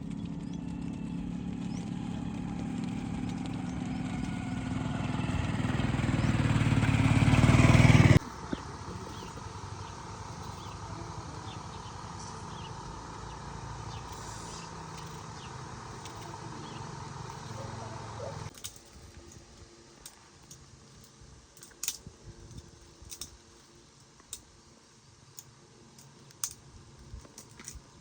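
An engine growing steadily louder as it draws near, cut off suddenly about eight seconds in. A steadier, quieter sound follows, and then a low background with scattered sharp clicks.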